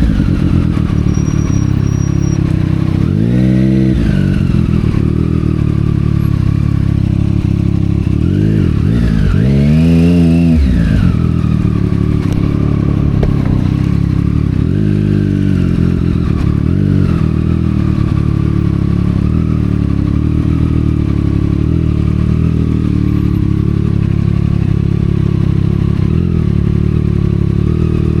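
Triumph Street Triple 765 R's inline three-cylinder engine through a Yoshimura aftermarket exhaust, pulling up through the revs and dropping back three times, about 3, 9 and 15 seconds in, then running steadily at low revs.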